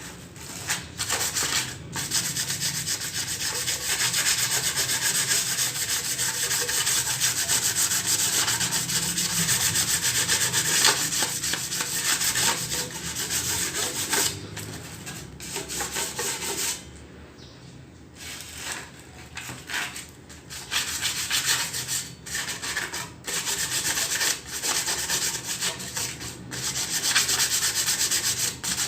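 Sandpaper rubbed hard by hand over the metal of an exhaust manifold to strip the rust, a continuous dry scratching. It stops for a moment a little past halfway, then goes on in shorter, broken strokes.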